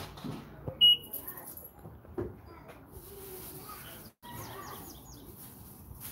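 Small birds chirping in the trees: a short, loud high chirp about a second in and a quick run of high notes in the second half, with a few soft knocks in between.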